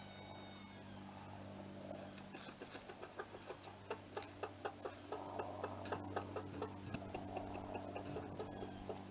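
Chickens clucking in a quick, regular series of short clucks, about three or four a second, starting a couple of seconds in, over a steady low hum.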